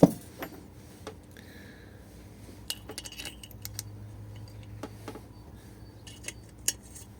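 Metal hand tools and engine parts clinking and tapping during engine assembly, with one sharp knock at the start and scattered light clicks after it.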